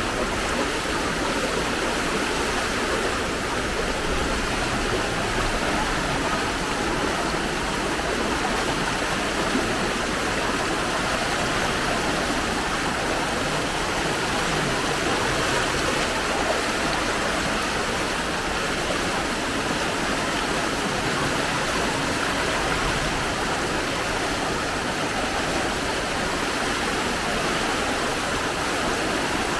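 Steady rush of fast-flowing floodwater, a continuous even noise with no breaks.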